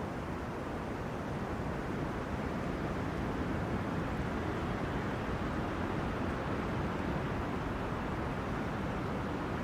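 Wind blowing through tree crowns: a steady, low rushing noise that swells slightly now and then.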